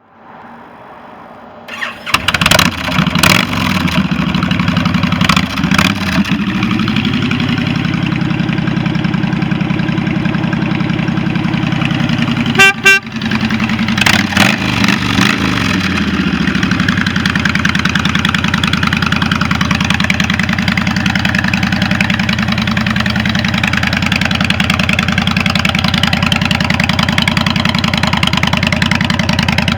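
2013 Honda Fury's 1312 cc V-twin engine starting about two seconds in and being blipped several times, then settling into a steady idle. About halfway through comes a short horn beep, followed by a few more throttle blips before the engine idles evenly again.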